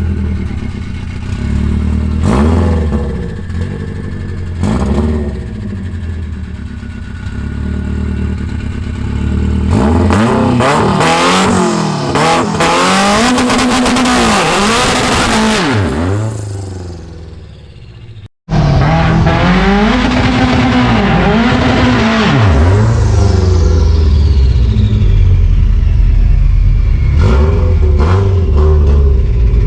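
Turbocharged car engine at full throttle, its revs climbing and dropping sharply through a string of quick gear shifts. Partway through the sound cuts out briefly, then comes back with more shifts and a steady, loud low rumble.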